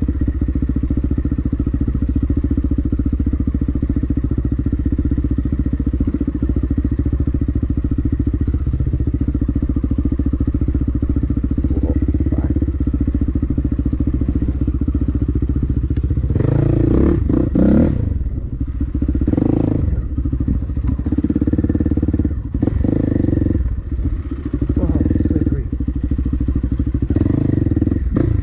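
Dirt bike engine running at a steady pitch, then revving hard in uneven surges from a little over halfway through, with the throttle rising and falling.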